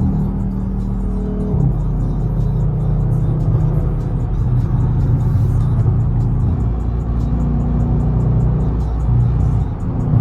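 Dodge Scat Pack's 392 HEMI V8 running steadily, its low drone shifting pitch a couple of times, with music playing over it.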